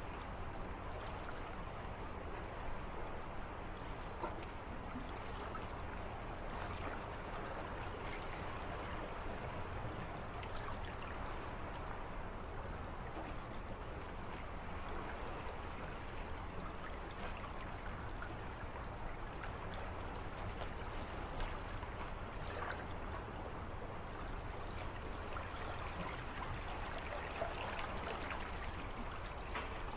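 Running water of a small stream, a steady trickling and babbling with a low rumble underneath.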